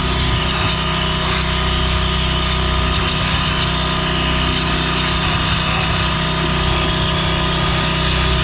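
Pressure washer fitted with a wet sandblast kit, blasting sand and water against a truck wheel: a loud, steady hiss over the pressure washer's unbroken running hum.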